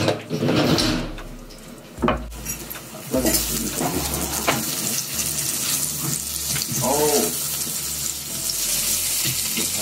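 Kitchen utensils clattering and knocking for about three seconds, then oil sizzling steadily as breaded mushrooms fry in a stainless-steel frying pan and are turned with a fork.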